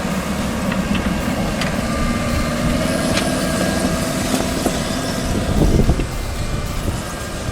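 Excavator's diesel engine running, with a few short sharp clicks of metal and a louder low rumble about five and a half seconds in.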